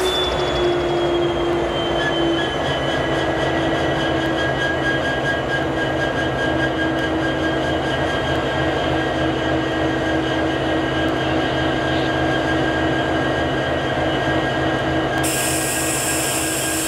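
Freight train cars rolling on curved track, with steady squealing tones from the wheels over a continuous low rumble. A band of hiss sounds for about two seconds near the end.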